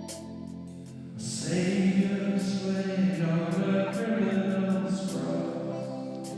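Worship song: held guitar notes, with voices singing in from about a second in until near the end.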